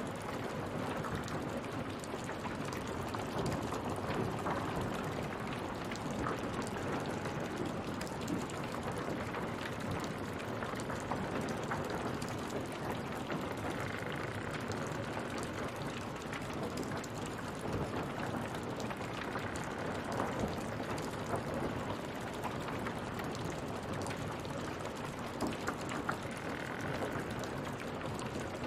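Rain falling steadily in a dense patter. Faint short higher notes sound three times, about halfway through and again towards the end.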